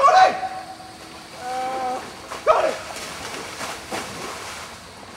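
A person's loud wordless shouts or yells, three of them: a sudden loudest one at the start, a held cry about a second and a half in, and another sharp one about half a second later.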